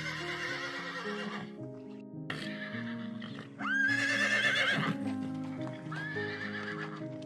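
Horse whinnying four times over background music. The loudest call, near the middle, sweeps up sharply and then holds with a quaver.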